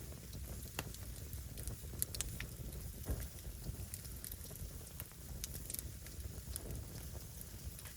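Firewood burning, crackling with scattered sharp pops over a steady low rumble.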